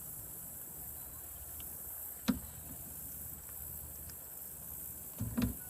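Steady high-pitched chorus of crickets and other insects, with a few short knocks while a fish is unhooked in a kayak: one about two seconds in and a couple near the end.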